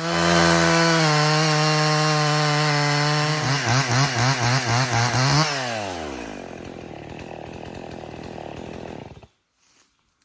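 Two-stroke chainsaw running at full throttle, cross-cutting a log to length. A few seconds in, the revs surge up and down about four times a second, then fall away. A lower rattling run-down follows and cuts off suddenly near the end.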